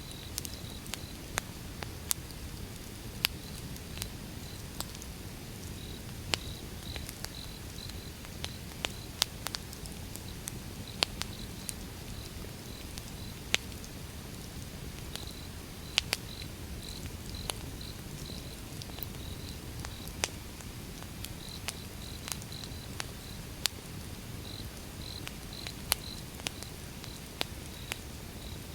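Wood fire burning with a low rumble and irregular sharp crackles and pops, about one a second, a few much louder. Crickets chirp steadily in short repeated pulses behind the fire.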